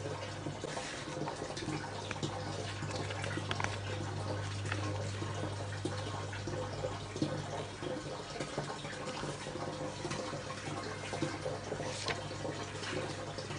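Tap water running steadily into a sink, with scattered light clicks and a low steady hum underneath.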